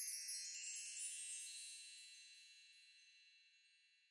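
Twinkling chime sound effect: a cluster of high, bell-like notes ringing together and fading away over about three seconds.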